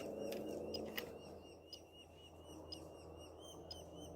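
Faint, steady begging chirps of nestling birds in a tree hole, short high calls about four a second, with a short electronic beep about once a second from an RC transmitter's timer signalling that half an hour of running time is up.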